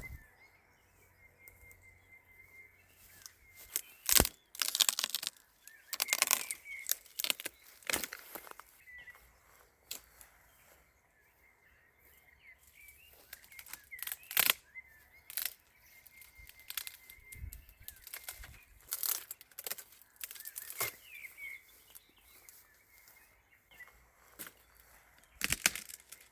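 Twigs and firewood being handled and snapped: irregular cracks and rustles, scattered in clusters with quieter gaps between.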